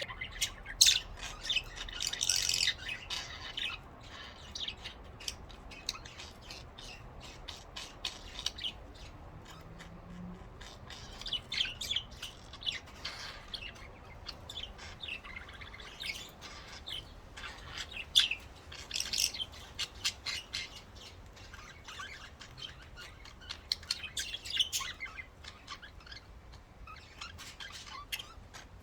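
Pet budgerigars chirping and chattering in short, scattered bursts of high chirps and clicks, busier in several clusters through the stretch.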